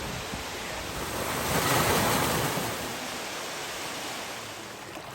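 Rush of falling water from a waterfall, a steady hiss that swells louder about a second and a half in, then eases off.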